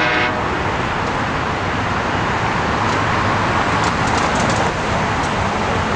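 A train horn chord cuts off just after the start. A steady rushing rumble of a passing train follows, with a few faint clicks about four to five seconds in.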